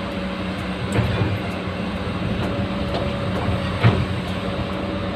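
A steady low mechanical hum with a few light knocks, about one, three and four seconds in.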